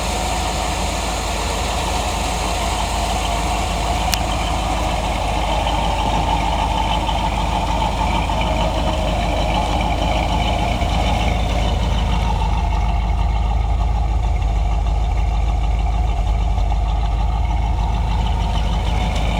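A Chevrolet 350 small-block V8 engine idling steadily, with a single sharp click about four seconds in.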